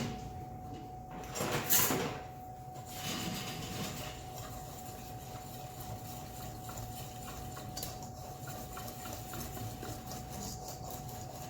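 Wire whisk beating a thin tempura batter of flour, baking powder, beaten egg and water in a bowl: a steady run of quick scraping, tapping strokes, with one louder burst about two seconds in.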